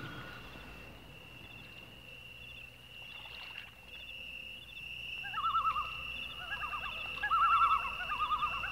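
Birds calling: a thin steady high note throughout, joined from about five seconds in by repeated warbling trills that grow louder.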